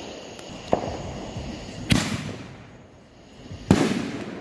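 Five-inch canister aerial firework shells going off: a smaller bang under a second in, then two loud booms about two seconds in and near the end, each trailing off in a rumble.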